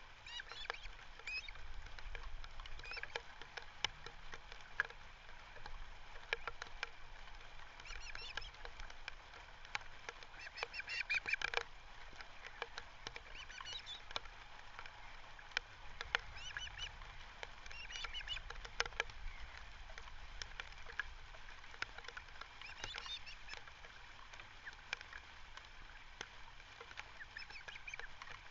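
Ospreys calling: a series of short, high, repeated chirps that comes in bursts every few seconds, loudest about eleven seconds in, over a steady outdoor background.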